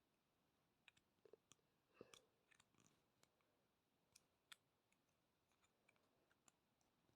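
Near silence with faint, scattered clicks and taps of small plastic vacuum-cleaner attachments being handled and pushed together.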